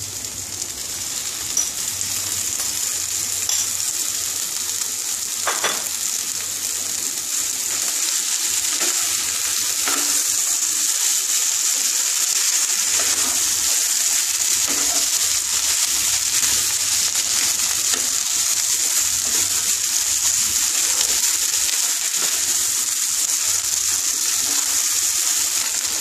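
Potato-and-rohu-fish chop filling sizzling in a non-stick pan as it is stirred with a wooden spatula: a steady frying hiss with a few light taps of the spatula, growing a little louder after the first several seconds.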